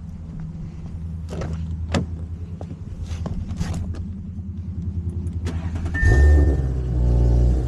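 Audi S5 engine running with a low pulsing rumble and a few light clicks, then about six seconds in it suddenly gets louder and deeper.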